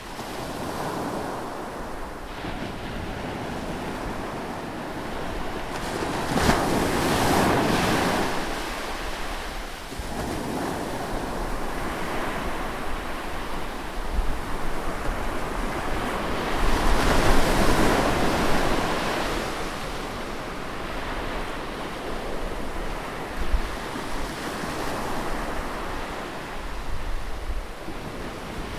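Ocean surf breaking and washing on a shore in slow swells. The largest waves break about seven and seventeen seconds in, with a smaller one later.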